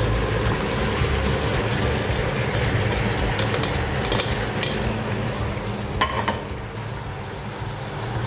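Chicken sautéing in a pot sizzles as chopped bottle gourd is tipped in from a colander, with a few light clicks and a sharper knock about six seconds in. The sizzling is quieter after the knock.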